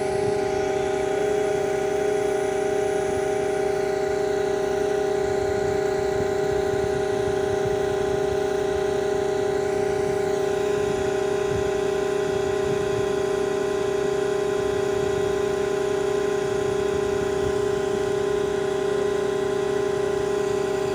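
Putzmeister concrete pump running steadily: a constant machine hum with a strong, unchanging whine over it.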